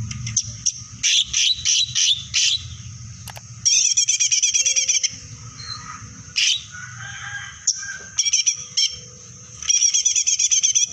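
Songbird singing in loud bursts: a run of sharp chips, then rapid high trills of about a second each, repeated after short pauses, over a low steady hum.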